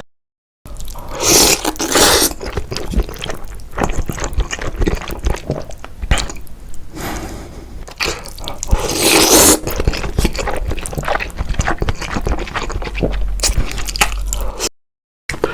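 Close-miked wet eating and liquid sounds, with scrapes and many small clicks, and two louder rushes of liquid noise about a second in and about nine seconds in.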